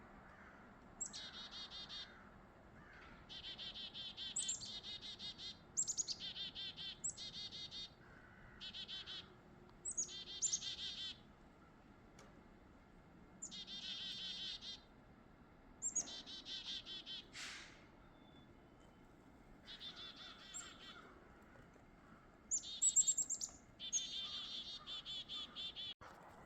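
Chickadees calling over and over, each call a sharp high note followed by a quick buzzy run of lower notes.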